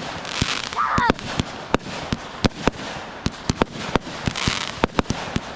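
Fireworks going off: a rapid string of sharp bangs, several a second, over a hissing crackle that swells twice.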